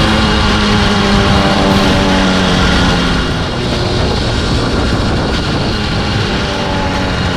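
Chinese 80cc two-stroke engine on a motorized bicycle, running under way with a steady drone that eases off and gets rougher about halfway through.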